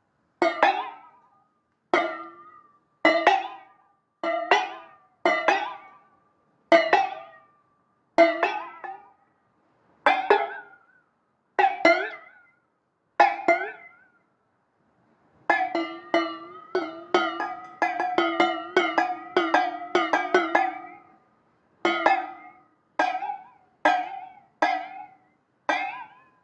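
A series of twanging notes on one pitch from a plucked instrument, each sharp at the start and dying away within a second, with a wavering overtone. They come about one every second and a half, then in a quick run of several a second in the middle, then about one a second.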